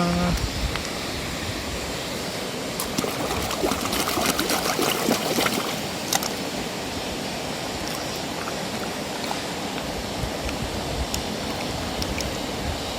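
Steady running, splashing water as muddy plastic toy cars are rinsed, with a few light clicks and knocks.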